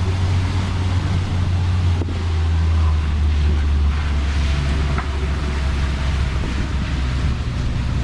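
Open-topped Moke being driven: a steady low engine drone under wind rushing across the microphone.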